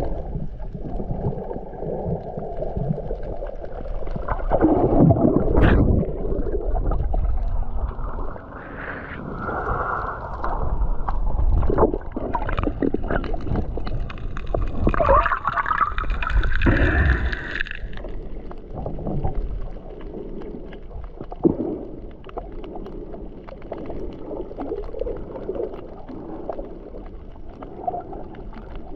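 Wind buffeting the microphone and water rushing and gurgling along the hull of a boat under way, with a brief rising pitched sound partway through.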